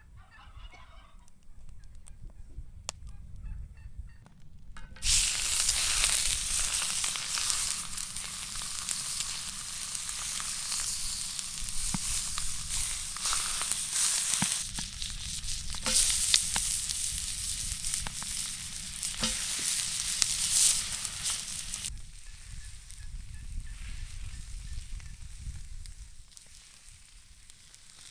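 Food frying in hot fat: a loud sizzle starts suddenly about five seconds in and drops to a softer sizzle after about twenty-two seconds.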